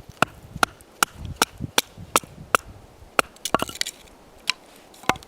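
Sharp wooden strikes of sticks being split into kindling: a steady run of about two or three blows a second, then a brief cluster and one last blow near the end.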